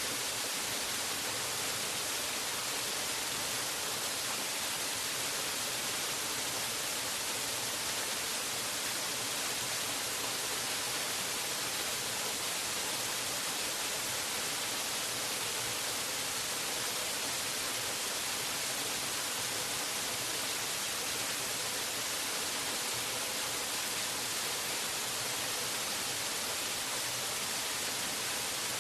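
Waterfall's rushing water as a steady, unbroken hiss, brightest in the high end, with no change in level or any separate splashes.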